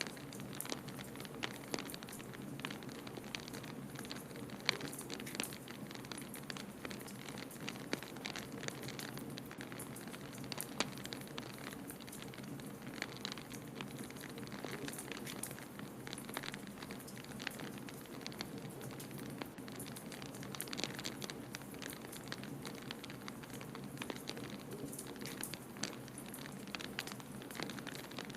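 Wood fire crackling in a fireplace: irregular sharp snaps and pops over a steady low rush.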